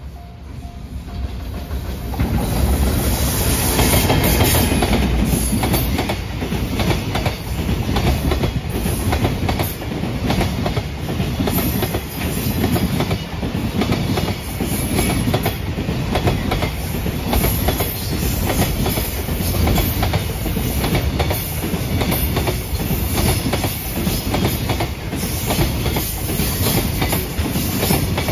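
JR Freight container train passing close at speed: it grows louder over the first few seconds as the locomotive comes by, then the container wagons clatter steadily over the rail joints. A level-crossing bell rings at the start and is soon drowned out by the train.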